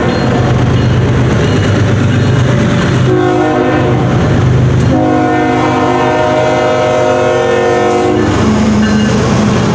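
Diesel freight locomotive horn sounding a short blast about three seconds in, then a long blast that stops about eight seconds in, over the low rumble of the passing GE ES44AH locomotives and their wheels on the rails.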